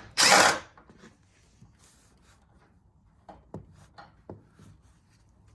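Hand tool on a 7mm fastener: a short, loud scraping rattle right at the start, then a few faint clicks and taps about three to four and a half seconds in.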